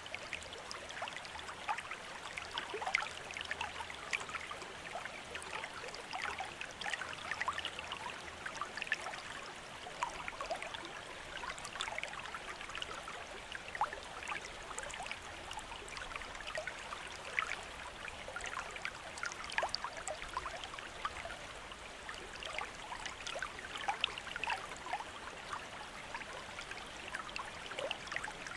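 Bamboo water fountain: water trickling steadily from the spout into the basin, with many small splashes and drips scattered through it.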